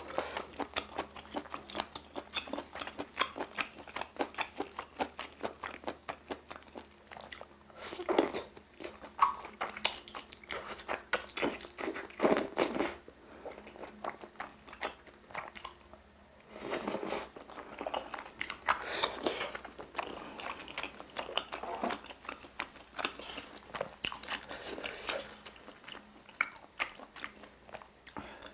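A person chewing spicy stir-fried octopus with chewy glass noodles, wet and sticky, with many quick smacking clicks. A few louder bursts of mouth noise come now and then.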